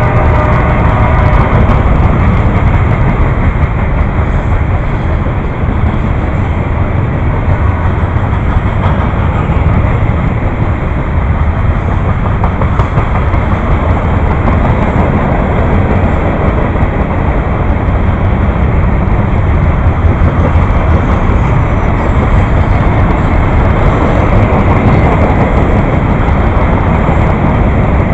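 Railway cars rolling past: a steady, loud rumble and rattle of wheels on rails.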